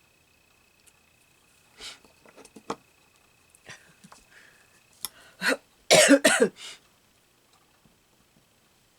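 A person coughing in a quick run of four or five coughs about six seconds in, after soft taps and rustles of paper being handled.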